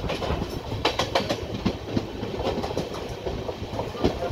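Passenger express train running, heard from its own coach: a steady rumble of wheels on the track with sharp clickety-clack knocks as the wheels cross rail joints. The knocks come in a quick cluster about a second in and again near the end.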